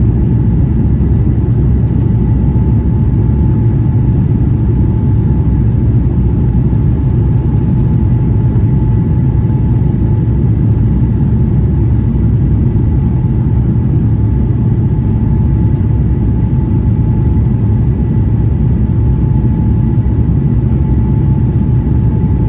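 Airbus A350-900 cabin in flight: steady low rumble of the Rolls-Royce Trent XWB engines and airflow, with a faint steady whine running through it.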